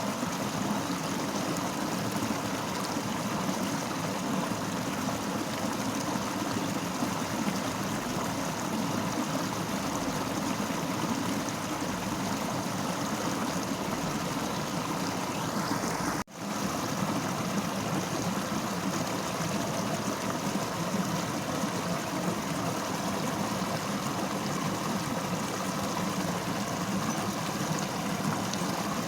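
Fast-flowing river rushing steadily. The sound drops out for an instant about two-thirds of the way through, then comes straight back.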